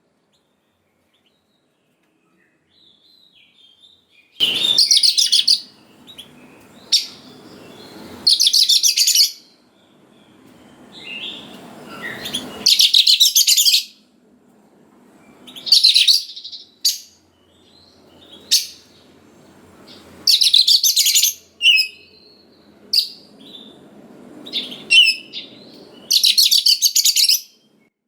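Oriental magpie-robin (kacer) singing: after a few seconds of quiet, loud, high bursts of rapid song about a second long come every three to four seconds, with short chirps between them.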